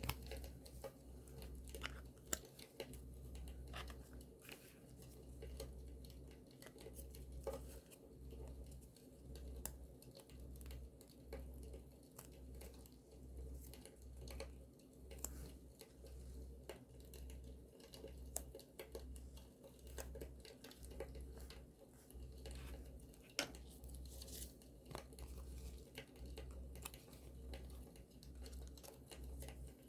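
Campfire crackling, with scattered sharp pops over a low rumble that swells and fades about once a second. Paper being handled, torn and crinkled for scrapbooking can be heard with it.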